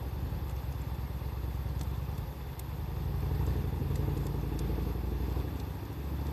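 Low engine rumble of a motor vehicle running nearby, swelling about halfway through and shifting pitch near the end, with sparse faint crackles from the burning wood fire.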